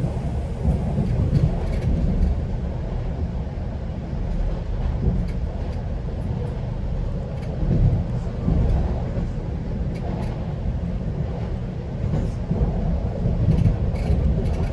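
GO Transit commuter train running along the track: a steady low rumble of wheels on rails with faint scattered clicks.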